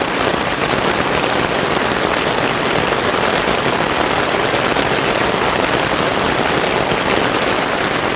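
Steady, loud heavy rain falling without a break.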